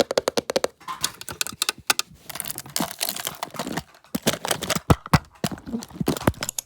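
Rapid crinkling and clicking of small items being handled close up, a dense run of sharp crackles with a few louder clicks.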